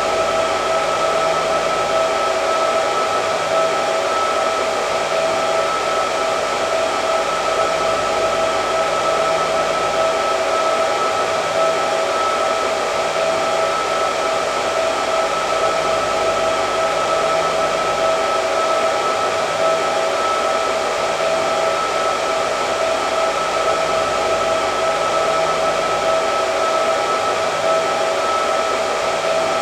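Hair dryer blowing continuously, a steady rush of air with a constant motor whine.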